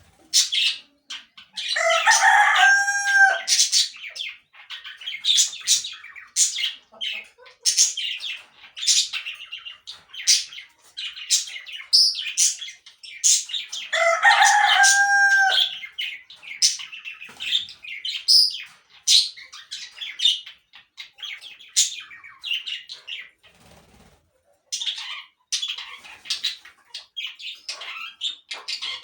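A rooster crows twice, about two seconds in and again about fourteen seconds in, each crow ending on a held note. Between and under the crows, small birds, parakeets, chirp in quick high bursts.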